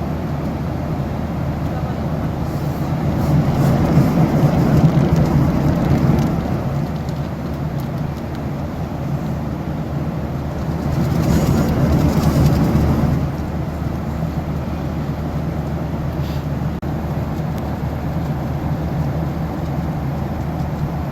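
Airliner cabin noise: a steady low jet-engine and airflow drone that swells louder twice.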